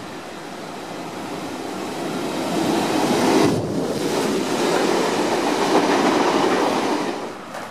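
Double-deck Intercity V-set electric train passing a station platform at speed. Its noise builds over the first three seconds, stays loud, then cuts off suddenly near the end.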